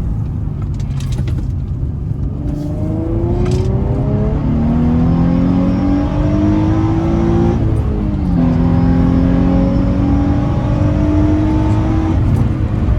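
Infiniti G35's 3.5-litre V6 under hard acceleration, intake and exhaust note climbing steadily in pitch, dropping on an upshift about eight seconds in, then climbing again through the next gear with another shift near the end. Heard from inside the cabin.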